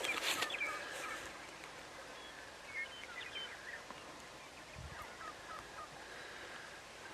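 Faint outdoor background with scattered short, high bird chirps for a few seconds, after a brief rustle at the start.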